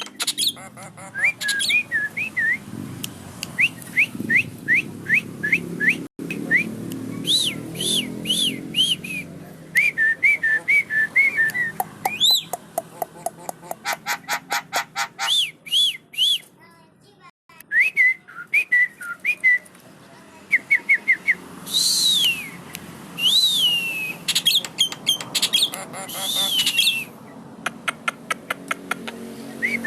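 Javan myna singing: strings of short, quick whistled notes, each bending up or down, broken up by runs of fast rattling clicks, with a few longer arching whistles in the second half.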